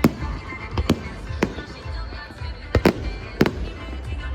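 Fireworks going off: a string of sharp, separate bangs, about six in all, two of them in quick succession a little under three seconds in, over a low, steady rumble.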